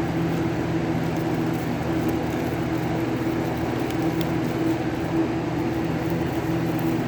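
A steady low mechanical hum with a couple of held tones, unchanging throughout.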